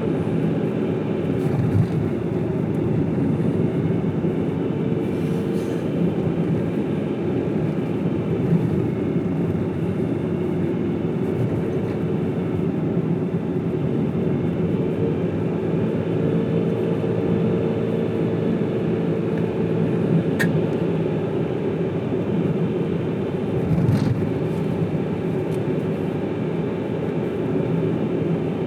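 Steady rumble of a car driving along a road, engine and tyre noise, with a single light click about twenty seconds in.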